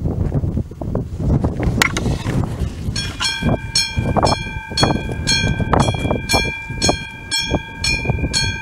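Level-crossing warning bell of an AŽD 97 signal, a classic mechanical bell, starting about three seconds in and ringing in rapid, even strikes, roughly two to three a second. This means the crossing warning has been activated for an approaching train. Before the bell, low rumbling noise, with wind on the microphone.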